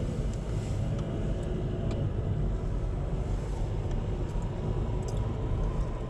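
Car running and driving off, a steady low rumble with a few faint ticks.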